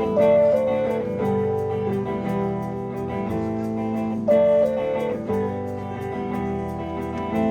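Live rock band playing a song's instrumental intro: guitar chords and melody over bass, with a drummer keeping steady hi-hat ticks.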